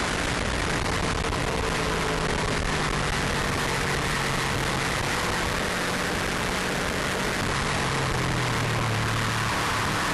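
Subaru Impreza WRX RA's turbocharged flat-four pulling at speed, its engine note buried under heavy wind and road rush. The engine pitch eases down slowly and climbs again near the end.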